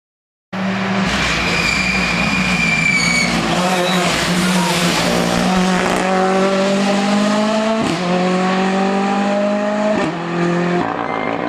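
Hill-climb race car engine at high revs. The pitch climbs through one gear, breaks at a gear change about two-thirds of the way through, and climbs again before dropping off near the end, over a steady low hum.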